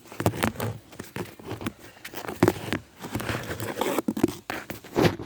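Close, irregular crackling and rustling, dense and uneven, with the busiest stretches in the middle and near the end.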